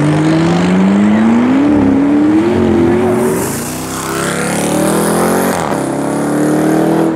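McLaren convertible's twin-turbo V8 accelerating hard away, its note climbing steadily in pitch, dropping at an upshift about three and a half seconds in and climbing again with a hiss over it. Near the end a second vehicle's engine takes over with a steadier note.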